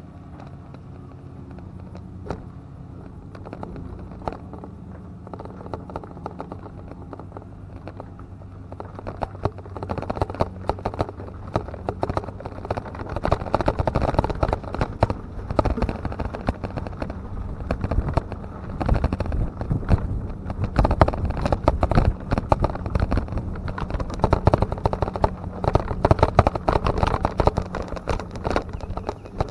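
An engine running steadily at idle, joined from about nine seconds in by louder, irregular crackling and rumbling.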